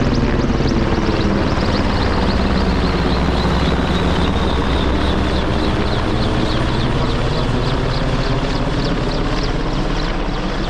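Low-flying Merlin helicopter passing close, its three turbine engines and rotor making a loud, steady drone with a high turbine whine that slowly drops in pitch over the first few seconds.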